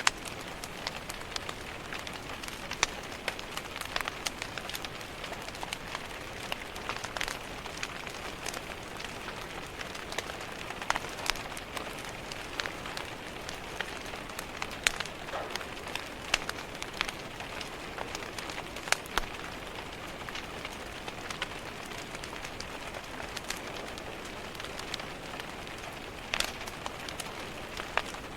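Steady rain pattering against a window, with a wood fire crackling and giving off irregular sharp pops.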